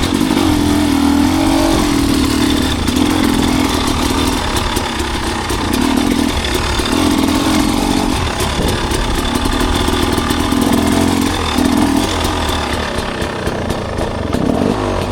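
Enduro dirt bike engine running, its revs rising and falling repeatedly in uneven spells.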